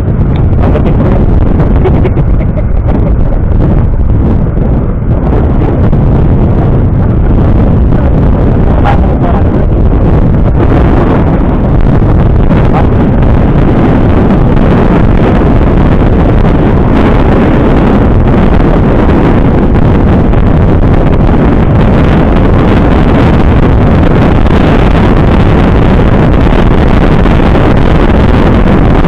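Loud, steady wind rushing over the microphone while riding, mixed with vehicle engine and road noise.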